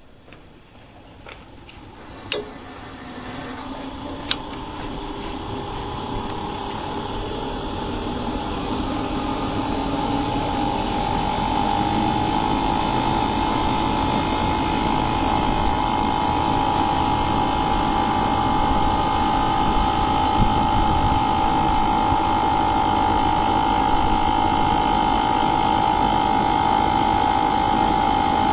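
Inverter air conditioner starting up: two sharp clicks, then a motor speeding up over about ten seconds and settling into a steady hum with a constant high-pitched whine.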